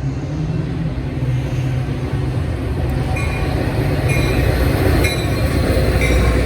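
A train passing close by with a heavy low rumble. From about halfway through, its wheels click sharply over the rail joints about once a second.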